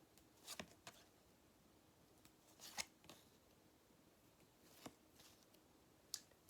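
Near silence: room tone broken by about five faint, brief rustles and clicks spread across the few seconds.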